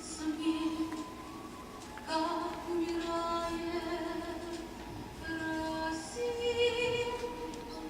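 A woman singing in an operatic style, a slow melody of long held notes.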